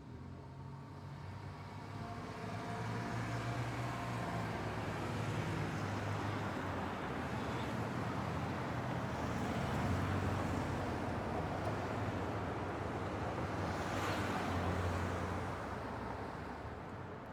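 Road traffic ambience: vehicles passing on a curving road, tyre noise and low engine hum building over the first few seconds, staying steady through the middle with one brighter pass about fourteen seconds in, then easing off near the end.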